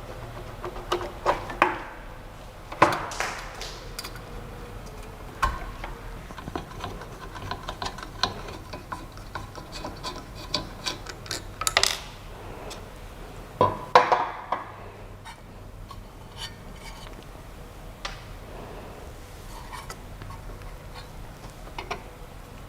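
Scattered clicks, clinks and rubbing from small hard parts being handled, the loudest knocks about 3, 12 and 14 seconds in, over a steady low hum.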